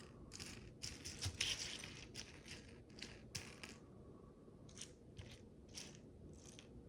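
Micro bricks, tiny plastic building blocks, clicking and scraping as they are handled and pressed together: a quick flurry of small clicks about a second in, then scattered single clicks.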